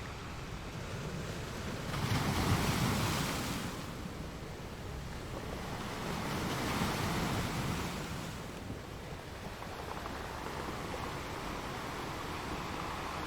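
Ocean surf: waves washing ashore in a steady hiss. One wave breaks loudly about two seconds in, and a softer one swells up and falls away a few seconds later.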